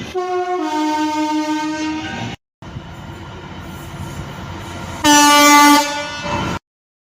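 Train horn blowing twice: a two-note blast, stepping from a higher note to a lower one and held for about two seconds, then after an abrupt cut a shorter, louder blast about five seconds in, over the noise of a passing train.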